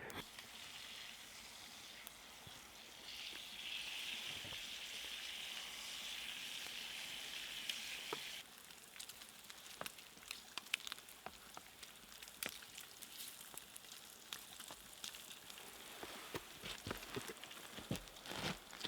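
Bacon sizzling in a pan over a campfire: a steady hiss that cuts off suddenly about eight seconds in, followed by scattered pops and crackles.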